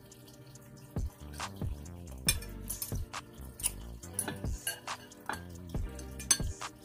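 Close-miked chewing of breaded popcorn shrimp, with wet mouth smacks and clicks about every half second, and a metal fork tapping a glass baking dish.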